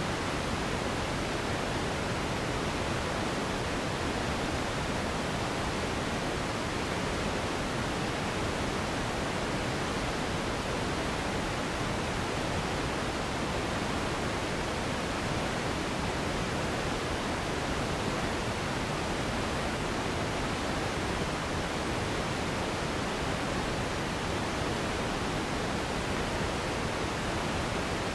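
Steady pink noise: an even, unchanging hiss across the whole range, slightly darker than white noise.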